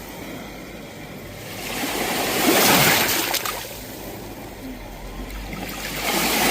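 Sea waves washing onto the shore. One wave swells and breaks about two seconds in, and the next builds near the end.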